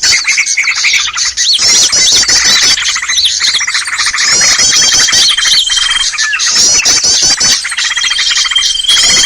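A dense, loud chorus of many small songbirds chirping, trilling and squawking at once, from a bird-trapping lure recording made to draw small wild birds. A steady high whistle-like note is held for over a second twice, about halfway through and again near the end.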